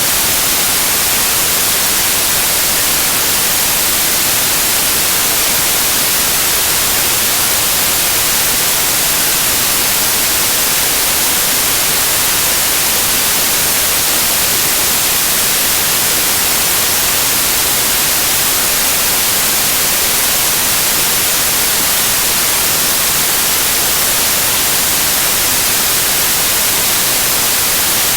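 Loud, steady white noise: an even hiss, strongest and brightest in the treble, with no changes or other sounds.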